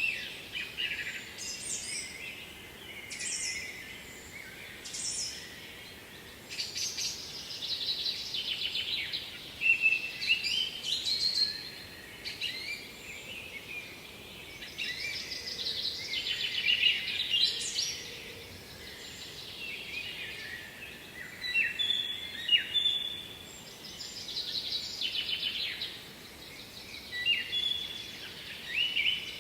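Songbirds singing, short varied song phrases coming every couple of seconds, over a faint steady hiss.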